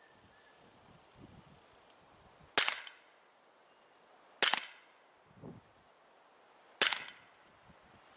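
Three shots from a Daisy Winchester M11 CO2 blowback BB pistol, each a sharp, loud crack with a short tail, about two seconds apart.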